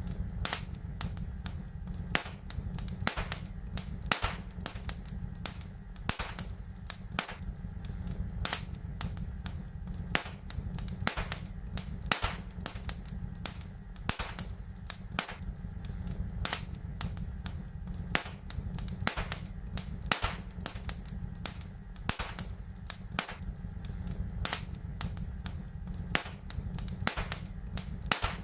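Fireplace fire crackling: irregular sharp pops and snaps, a few each second, over a steady low rumble.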